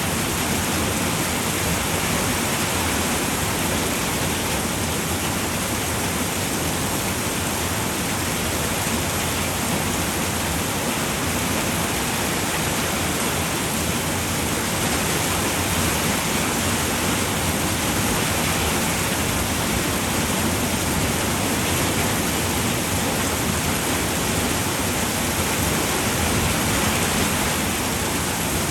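Steady rain falling on a roof, a dense, even hiss of drops with no single drops standing out.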